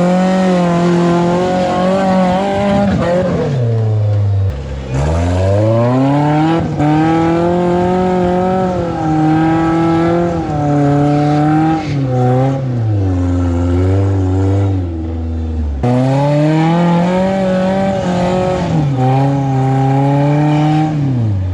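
Off-road truck engine revved hard in long throttle surges, the pitch climbing, holding high for several seconds and then dropping back to low revs, three times over, as the rock crawler works on the trail.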